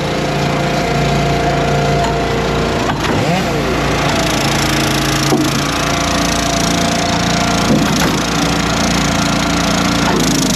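Gas-engine log splitters running steadily, with engine pitch dipping and rising briefly a few times as they take load, and wood cracking and splitting.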